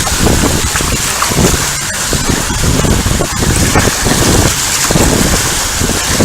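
Loud rushing wind buffeting the microphone, with irregular low thumps of gusts.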